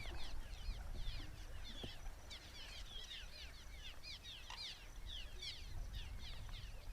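A flock of birds calling together: a dense, continuous chatter of short, high chirps, with a low rumble underneath.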